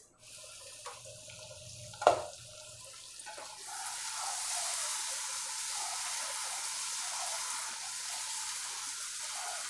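Tomato and mustard-spice masala sizzling and bubbling in oil in a frying pan, faint at first, then a single sharp clink about two seconds in. From about three and a half seconds the sizzling is louder and open, with a wooden spatula stirring the masala near the end.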